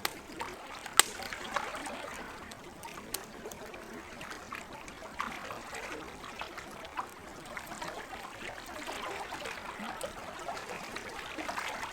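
Campfire crackling with scattered sharp pops, the loudest about a second in, over the gentle steady trickle of lake water.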